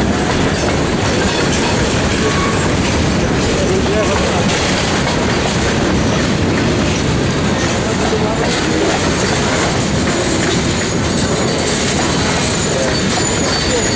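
Freight train cars rolling past steadily, their wheels clattering over the rails, with a faint high wheel squeal near the end.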